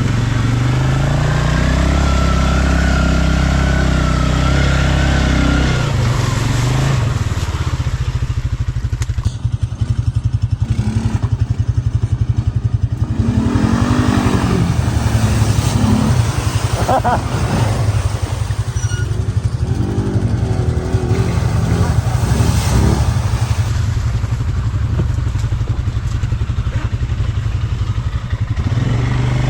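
ATV engine running steadily, its revs rising and falling a couple of times around the middle.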